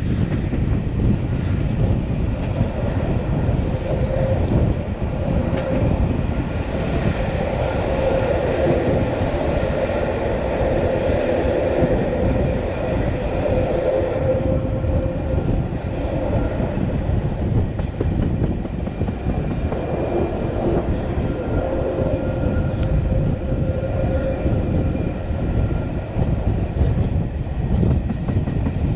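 Matterhorn Gotthard Bahn regional train running, with a steady rumble of wheels on the track. A high, thin wheel squeal sets in about three seconds in, holds for some fourteen seconds, and comes back briefly near the end.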